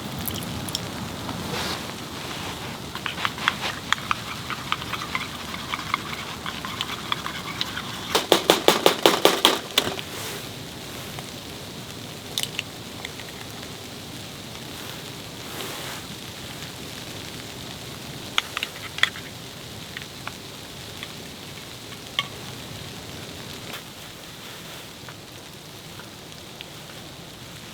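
Food sizzling in a hot pan: a steady hiss with scattered clicks, and a quick run of about a dozen sharp clicks about eight seconds in.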